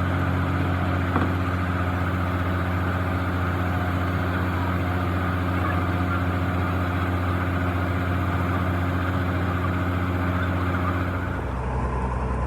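Excavator's diesel engine running steadily at constant speed. About eleven seconds in, its pitch drops as it slows down.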